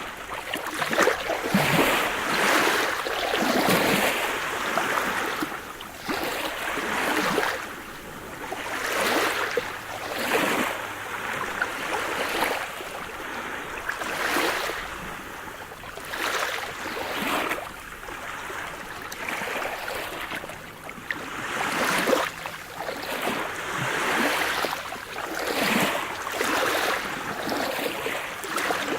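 Sea surf: waves breaking and washing in one after another, the hiss swelling and ebbing every couple of seconds.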